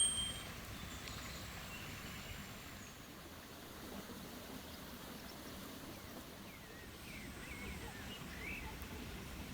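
Quiet outdoor woodland ambience: a soft steady background hiss, with a few short bird chirps in the last few seconds.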